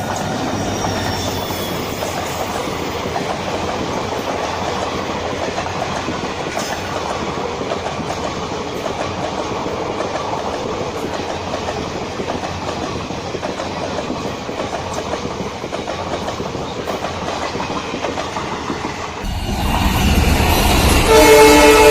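Passing train's wheels clattering over the rails in a steady rumble. About 19 seconds in the sound cuts to a louder train, and a locomotive horn sounds near the end.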